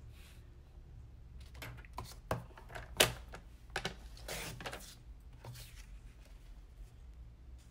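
Scattered clicks and taps from handling card stock and a paper trimmer, with a sharp knock about three seconds in and a brief swish a second later.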